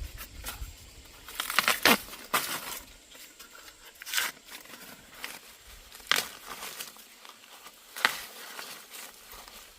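Sharp crackling snaps and tearing, about six separate strokes spaced a second or two apart, the loudest a cluster a little under two seconds in.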